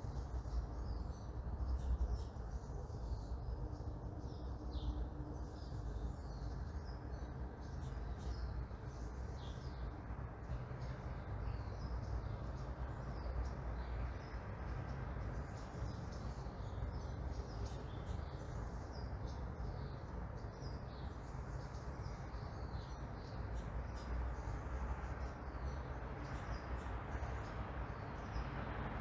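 Morning neighbourhood ambience: many small birds chirping and tweeting throughout, over a steady low rumble of distant traffic.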